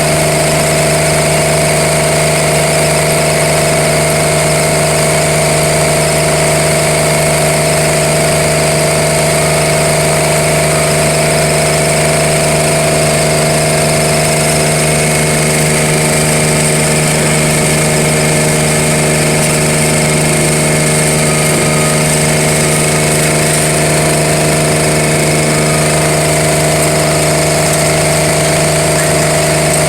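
A machine running steadily: a constant hum with several fixed whining tones over a hiss, unchanged throughout.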